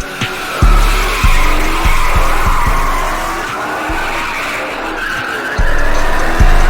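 Car tires squealing as the car swings and fishtails, a dense squeal that wavers in pitch, with a heavy bass beat of music thumping underneath.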